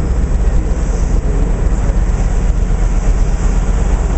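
Approaching train, its locomotive giving a steady low rumble.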